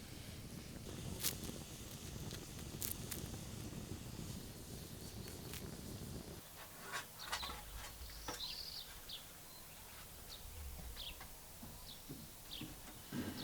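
A dense low rustling noise with a few sharp clicks cuts off suddenly about six seconds in, giving way to a quieter background of birds chirping, with short high chirps every second or two.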